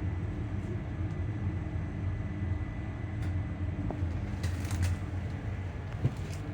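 ScotRail Class 385 electric train's electrical equipment giving a steady low hum heard on board, with a thin steady high whine over it. A few light clicks come about two-thirds of the way through.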